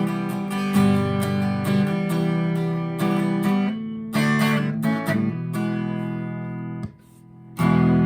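Squier Telecaster electric guitar played through a Vox AV15 valve amp on its clean channel: a run of ringing strummed and picked chords, broken by a short gap shortly before the end before the playing resumes.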